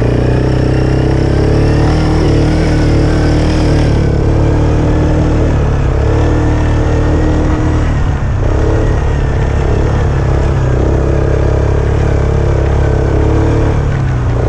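ATV engine running at fairly steady revs while riding in four-wheel drive, with small changes in pitch and a brief dip in revs about eight seconds in.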